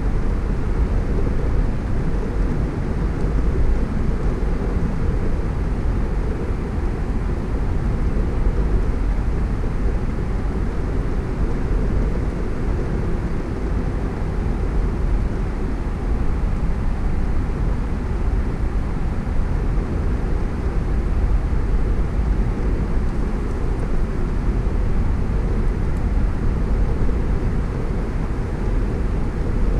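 Steady road noise from a car on the move: tyres and wind making a deep, even rumble, with no separate events.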